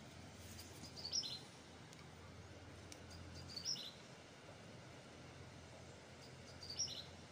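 A small bird calling three times, a short high chirped phrase each time, a few seconds apart, over a faint steady outdoor background.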